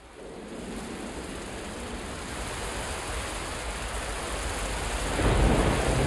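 Steady hiss of heavy rain fading in and growing louder, with a deep rumble of thunder swelling about five seconds in.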